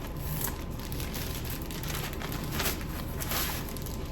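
Packaging and clothing rustling and crinkling as a garment is unwrapped, with a couple of louder crinkles late on.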